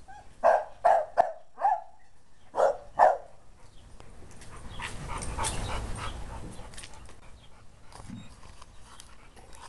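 Dog barking, six short sharp barks in about three seconds, followed by a softer rustling noise.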